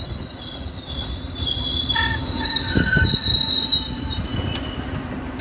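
Metra commuter train's steel wheels squealing on the rails over a low rumble. The high squeal fades out about four seconds in, and the sound grows gradually quieter.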